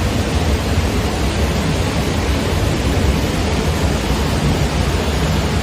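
Torrential rainstorm: a steady, loud rushing noise with a deep rumble underneath, unbroken throughout.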